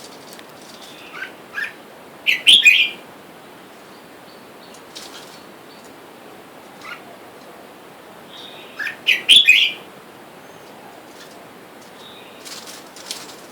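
Red-whiskered bulbuls calling: two loud, short, bubbling phrases about seven seconds apart, with a few softer single notes in between.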